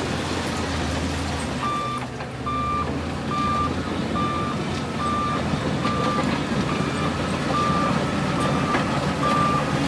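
Reversing alarm on a diesel heavy machine beeping a single steady tone a little over once a second, starting about two seconds in, over the machine's diesel engine running steadily.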